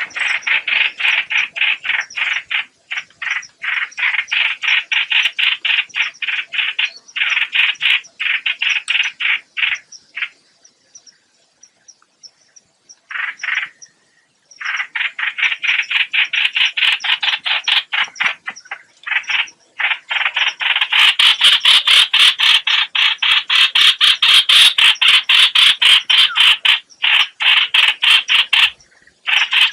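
Recorded call of the 'hoạch hoạch' bird, played as a trapping lure: a fast, harsh, rattling run of many notes a second, in long bouts. There is a break of a few seconds about a third of the way in, and the calling is louder in the second half.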